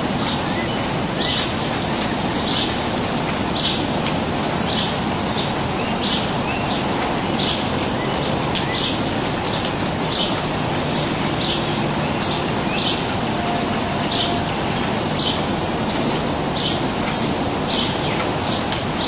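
A bird giving short, high chirps, repeated about once a second, over a steady background hiss.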